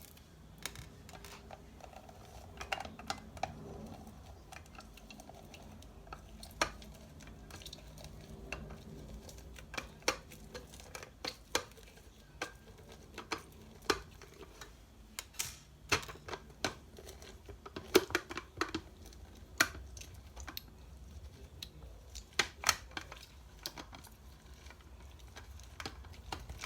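Lemons being juiced by hand: irregular sharp clicks and knocks of a juicer and kitchen utensils against the counter, about one or two a second.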